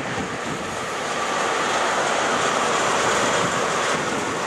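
A First Great Western HST (InterCity 125) approaching at speed: a steady rushing noise of the train with no horn.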